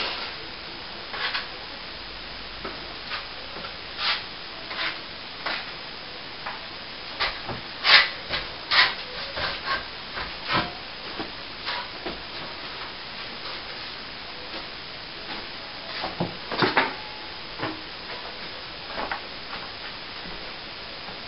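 Hand tools working on a cracked plaster wall: irregular short scrapes and knocks over a steady hiss, with a cluster of louder strokes about a third of the way in and again near the end.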